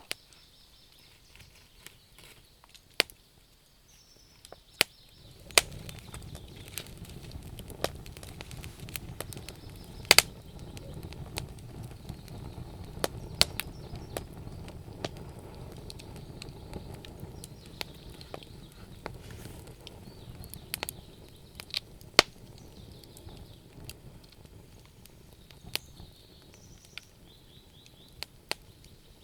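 Wood bonfire crackling, with irregular sharp snaps and pops throughout. A low rumble of the burning fire comes in about five seconds in and eases off near the end.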